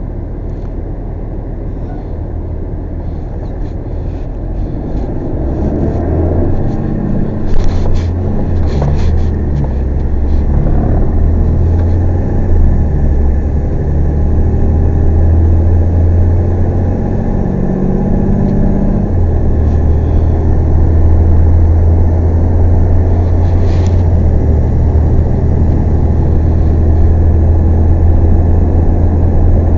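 Tow truck driving: a steady engine drone and road noise that grow louder about five seconds in as it picks up speed, with the engine note shifting a couple of times. Short rattles or knocks come about eight seconds in and again near twenty-four seconds.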